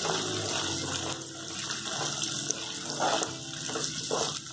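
Garlic cloves, ginger and curry leaves sizzling in hot oil in a steel kadai with a steady hiss, stirred with a metal ladle that scrapes and taps the pan now and then.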